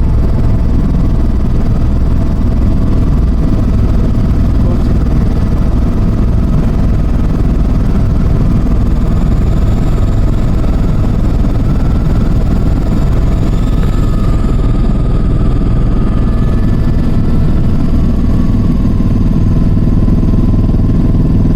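Helicopter running in flight: a loud, steady drone of engine and rotor.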